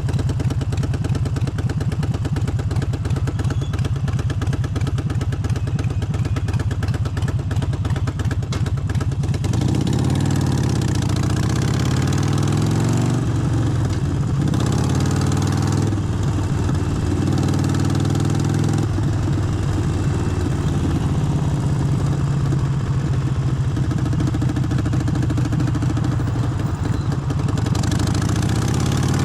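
Harley-Davidson Forty-Eight's air-cooled 1200 cc V-twin idling steadily for about the first nine seconds, then pulling away and running under way, its pitch rising and falling again and again as it revs through the gears.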